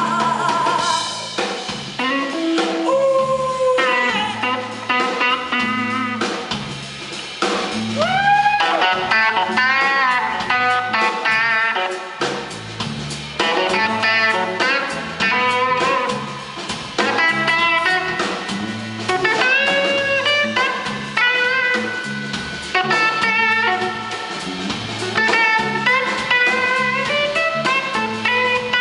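Live blues-rock band playing an instrumental break: a lead guitar solo with bent, sliding notes over bass and drum kit.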